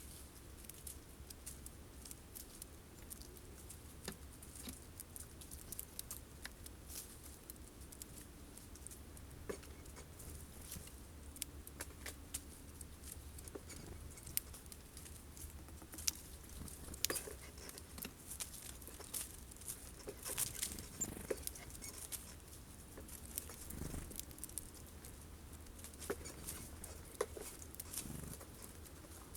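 Irregular small clicks and taps of birds pecking and picking at sunflower seeds on a feeder, busiest and loudest in the second half.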